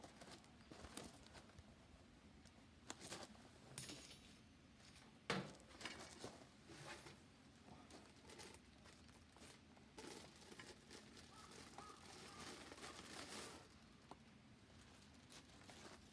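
Faint crinkling and rustling with scattered light clicks, and one sharper knock about five seconds in.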